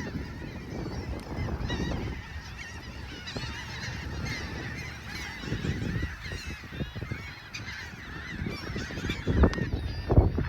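A flock of seagulls calling over one another in many short, overlapping squawks, over a steady low rumble that swells near the end.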